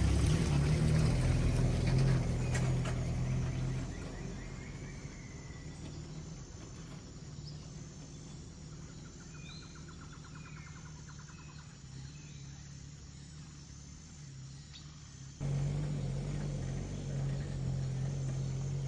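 A car engine running with a steady low hum, as when driving. Its level jumps up abruptly at the start, drops after about four seconds, and comes back up sharply about fifteen seconds in. Short bird chirps sound over it in the quieter middle stretch.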